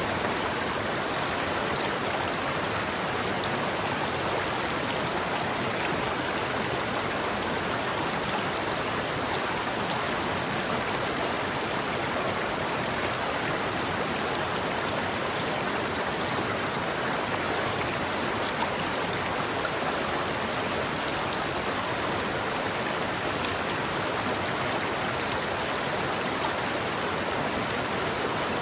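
River water flowing steadily over rocks, an even rushing sound without pauses.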